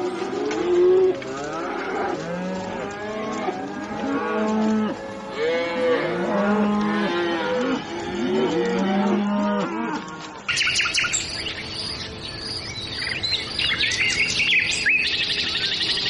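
A herd of cattle mooing, several cows calling over one another in long drawn-out moos. About ten seconds in, the mooing gives way to birds chirping rapidly.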